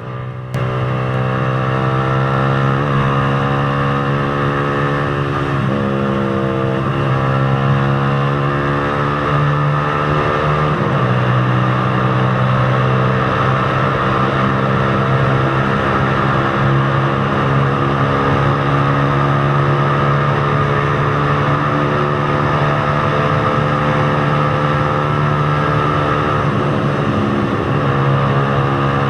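Motorcycle engine running under way, its pitch rising and dipping a few times in the first ten seconds or so, then holding mostly steady at cruise, over a constant rush of road and wind noise.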